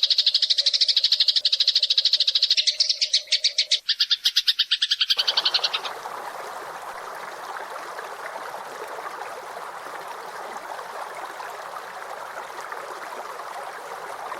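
Recorded bird call: a fast, high rattling trill for about the first five seconds, then a steadier rough hiss.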